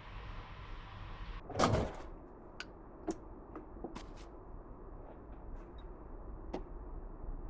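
Workshop handling sounds: one heavy clunk under two seconds in, then a few scattered light clicks and taps.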